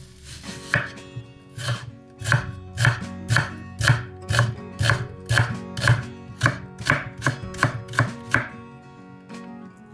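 Knife chopping food on a cutting board, about two sharp strokes a second in a steady rhythm, stopping about a second before the end.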